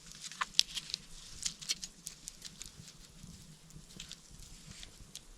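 Small campfire crackling: irregular sharp pops and ticks, several a second.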